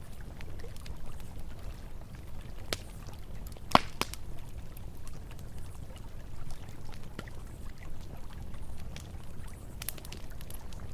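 Campfire crackling with scattered sharp pops, one much louder pop about a third of the way in, over a steady low rush of flowing river water.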